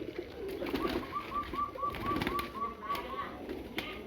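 Domestic pigeons cooing in a loft. About a second in, a run of about ten quick high chirps, roughly four a second, lasts about two seconds, and a few sharp clicks come near the end.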